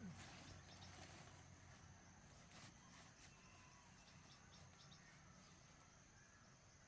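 Near silence: faint forest ambience with a steady high insect drone and a couple of faint clicks about two and a half and three seconds in.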